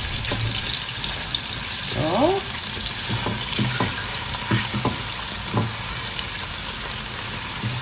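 Bratwurst pieces and sliced onions sizzling steadily in butter in a stainless steel pot, with a few light knocks as a silicone spatula stirs them.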